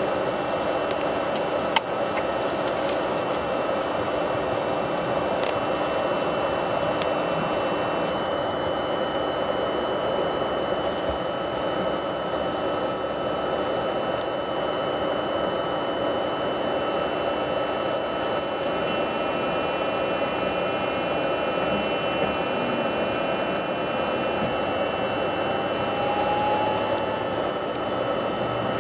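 Steady running noise of an electric passenger train heard from inside the carriage, with a few faint steady whining tones over it. One sharp click about two seconds in.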